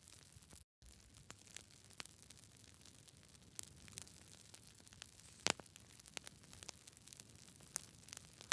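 Campfire crackling: irregular sharp pops and snaps of burning wood over a faint steady hiss, the loudest pop about halfway through. The sound cuts out completely for a split second just under a second in.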